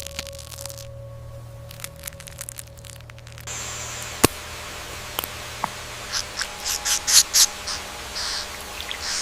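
Faint crackles and ticks of an eggshell starting to crack, with one sharp click about four seconds in. After that a steady hiss of rainforest ambience sets in, with a run of short, high insect buzzes in the second half.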